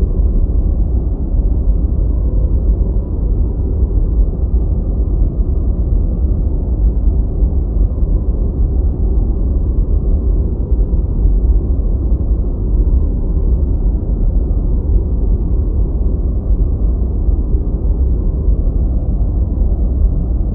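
Deep white noise: a steady, unchanging hiss with its weight in the bass and nothing much above about 2 kHz.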